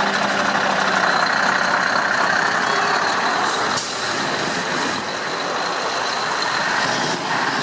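Heavy truck engine and road noise, steady throughout. About three and a half seconds in there is a short burst of air hiss that ends in a sharp click.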